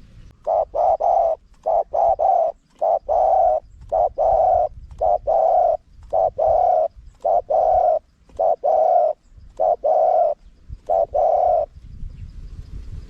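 Spotted dove cooing: a run of short, even-pitched coo notes grouped in repeated phrases, the wild-style song, over a faint low rumble.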